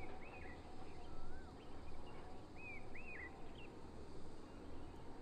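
A bird calling with short, arched whistled chirps, often in pairs, repeated every second or so, over faint steady outdoor background noise.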